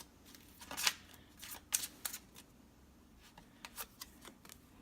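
Tarot cards being handled: a scatter of short flicks and rustles as cards are pulled from the deck and laid down.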